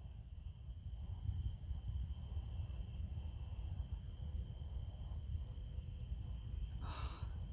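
Crickets trilling steadily over a low, constant rumble of distant freeway traffic, with a brief noisy sound about seven seconds in.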